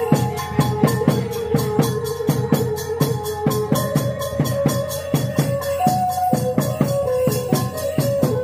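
Khmer chhay-yam music: drums and cymbals beat a steady rhythm of about three strokes a second under a held melody line that steps between a few notes.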